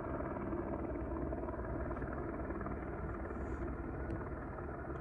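A motor running with a steady low hum that does not change.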